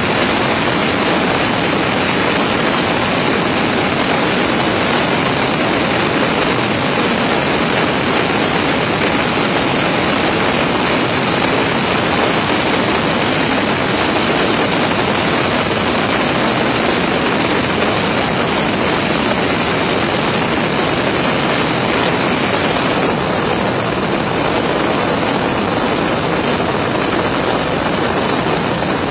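Steady, loud rush of airflow and aircraft engine noise picked up by a camera mounted on an airliner's landing gear.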